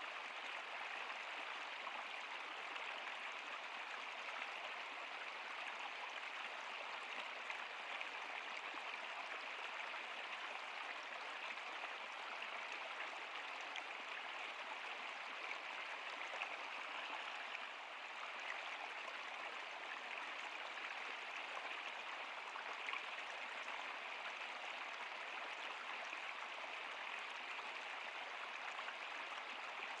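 Flowing stream water running steadily over rocks, an even rushing and splashing with no change.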